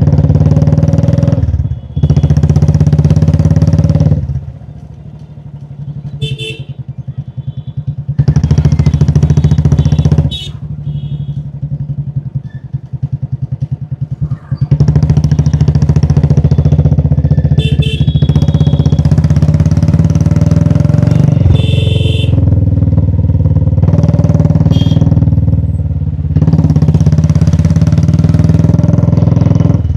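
Royal Enfield Classic 350's single-cylinder engine on the move: loud stretches of running with a rush of wind, alternating twice with quieter stretches where the engine's steady thump is heard pulse by pulse.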